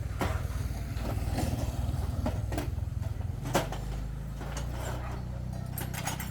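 A motor engine running steadily, with scattered sharp knocks and clicks over it; its note drops a little about halfway through.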